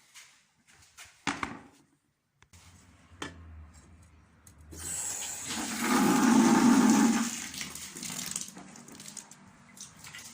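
Ceresit adhesive powder being mixed with water in a bucket: a couple of knocks, then a loud rushing, sloshing stretch of about three seconds from about five seconds in.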